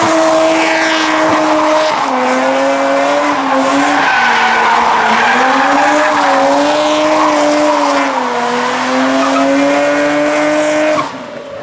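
A car's engine held at high revs, its pitch wavering a little, over the squeal and hiss of tyres spinning in a burnout. The engine note drops away about eleven seconds in.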